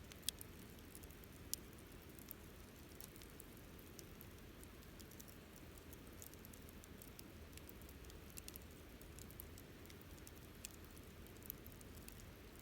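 Wood fire crackling softly, with scattered sharp snaps and pops over a faint low hiss; the loudest snaps come just after the start and about a second and a half in.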